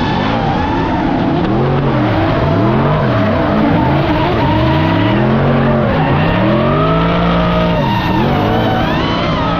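Drift cars' V8 engines revving up and down hard, the pitch rising and falling about once a second as the throttle is worked through the drift, over tyres screeching.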